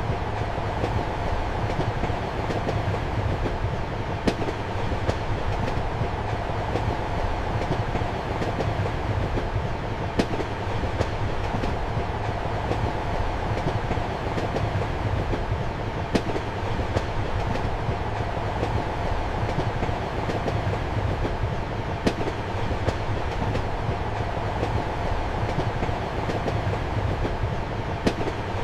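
Steady rumble and hum of a train running, heard from inside a passenger compartment, with a sharp wheel click from the rails about every six seconds.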